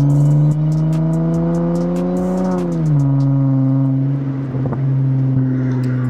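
The 3.5-litre V6 of a 2020 Acura TLX breathing through a custom catback exhaust with the stock mufflers and resonators deleted and two Vibrant Ultra Quiet resonators fitted, pulling with its pitch rising slowly, then dropping quickly to a lower steady note just under three seconds in as the transmission shifts up.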